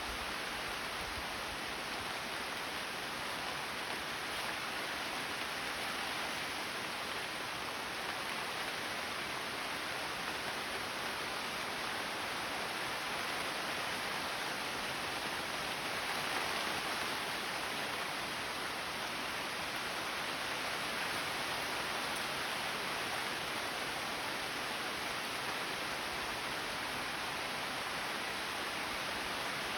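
Steady rain falling: an even, unbroken hiss with no separate drops standing out.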